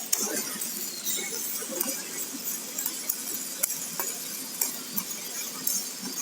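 Electric arc welding with a stainless welding rod: a steady crackling sizzle with frequent irregular sharp pops.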